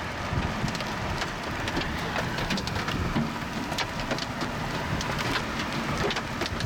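Rain pelting a vehicle's roof and windshield: a dense, steady patter with many sharp individual hits over a low rumble.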